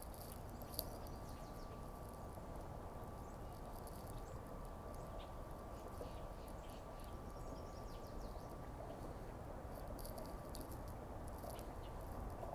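Faint background rumble with scattered small clicks and ticks, one sharper click about a second in, and a faint steady high whine that stops near the end.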